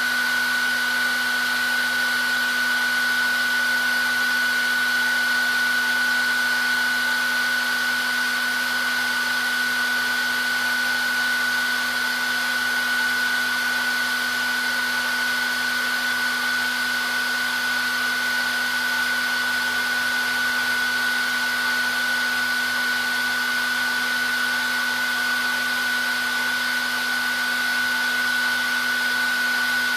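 Hair dryer running steadily: a constant rush of blown air with a high whine from the fan motor and a low hum underneath, unchanging throughout.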